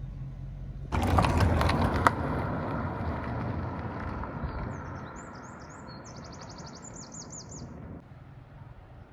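A sudden loud rush of noise with sharp clicks about a second in, dying away over a few seconds; then a small bird chirping, with a quick trill near the end.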